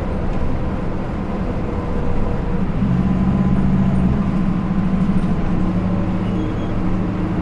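Hino Rainbow II bus's Isuzu 4HK1-TCH four-cylinder turbo diesel running on the road, heard as steady engine drone with a change in engine note about three seconds in.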